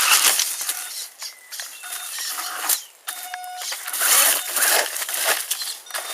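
Brushed electric motor and drivetrain of an HBX 1/10-scale RC monster truck driving over rough backyard ground, with tyre noise. The level surges and drops, with short pauses about a second in and near the middle.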